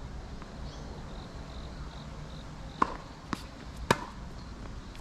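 Low wind rumble, then about three seconds in, three sharp pops half a second apart: a tennis ball bouncing on a hard court and being struck by a racket.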